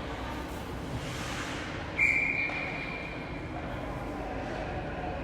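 A single short whistle blast in a hockey rink, loud for about half a second and then echoing away, over the arena's background hum.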